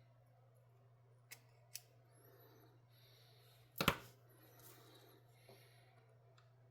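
Small metal parts of a folding knife clicking as they are handled and fitted back together: two light ticks, then a sharper click about four seconds in, over a steady low hum.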